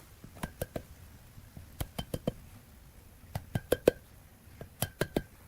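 Light sharp taps on a hard object, in quick groups of three or four, a group coming about every second and a half, each tap with a brief ring.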